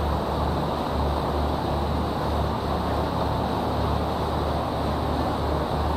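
Steady low engine rumble of a river tour boat under way, with a constant rush of wind and water noise.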